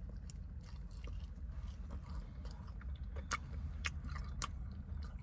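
Close-up chewing of a saucy, sauced chicken wing: wet biting and chewing with several sharp mouth clicks in the second half, over a low steady hum.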